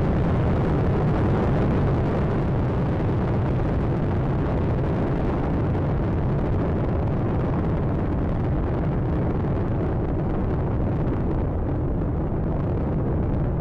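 Space Shuttle Atlantis's launch roar as its two solid rocket boosters and three main engines drive it up after liftoff: a steady, loud, deep rumbling roar. The highest part of the sound fades over the last few seconds.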